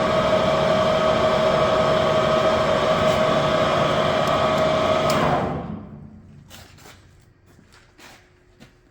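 Standard Modern 1640 tool room lathe running under its 10 hp three-phase drive motor, with a steady gear whine from the headstock. About five seconds in it shuts down and the sound dies away within a second, leaving a few light clicks.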